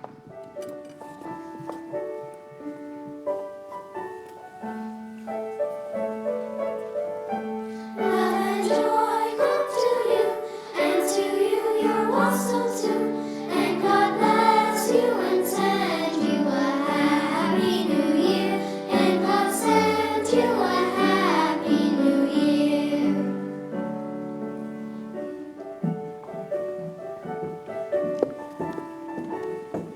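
Children's choir singing with instrumental accompaniment: the accompaniment plays alone for about eight seconds, the choir sings until about twenty-three seconds in, then the accompaniment carries on alone.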